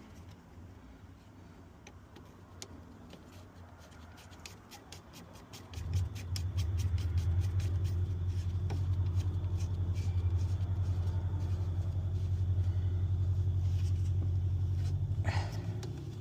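A quick run of small regular clicks, then about six seconds in a truck engine starts and settles into a steady low idle.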